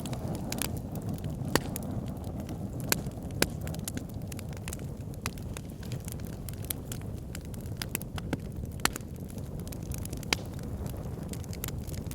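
Wood fire in an outdoor fire pit burning with a steady low rumble of flames and irregular crackling, with a few sharper pops.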